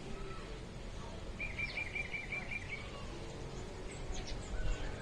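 Bird chirping: a quick run of about eight even chirps, then a few thin high calls near the end, over steady background noise.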